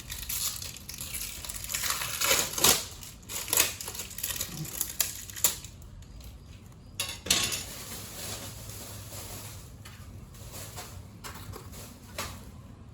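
Handling noise: rustling and scraping with light metallic clinks and knocks from parts being handled at the mower. It is dense for the first half and becomes sparser and quieter after about seven seconds.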